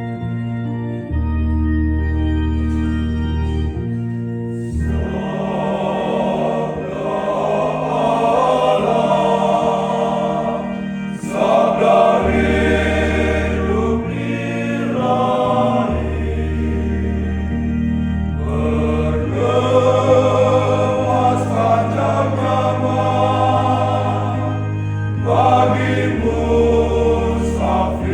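Church choir singing a hymn in parts to organ accompaniment. The organ plays alone at first, with held chords over low bass notes, and the choir comes in about five seconds in.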